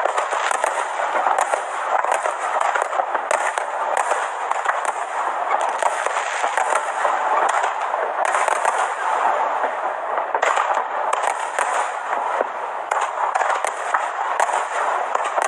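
Fireworks going off in a dense, unbroken crackle of many overlapping pops.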